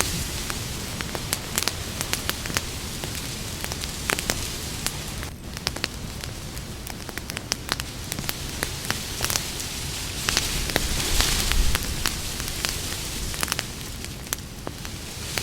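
Wood campfire crackling: irregular sharp pops and snaps over a steady hiss of burning. The hiss swells louder about two-thirds of the way through.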